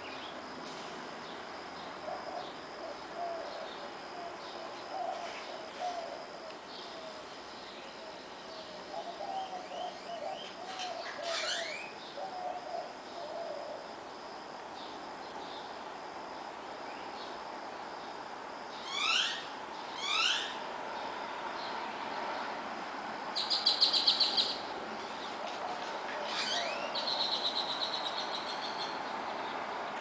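Several wild birds singing over a steady background of distant traffic. Many short low notes through the first half, then a few quick sweeping whistles and, loudest, a buzzy high trill about three-quarters through, followed by a second trill. A faint steady high chirring of crickets runs under the first half.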